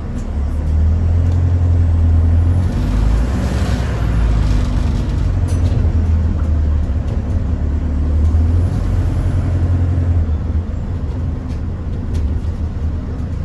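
London bus engine droning steadily, heard from inside the bus as it drives. A hiss comes in about two and a half seconds in, and a faint high whine rises and falls twice.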